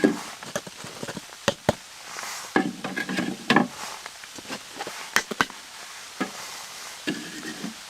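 Irregular sharp knocks and clatter, several a second at times, with a few short hollow thuds in between.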